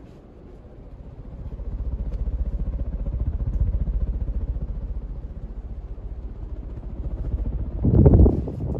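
Regency Marquis MX ceiling fan with a 188x20mm motor running, its blades moving air in a fast-pulsing low whoosh. The whoosh grows louder about a second in, and there is a louder swell near the end.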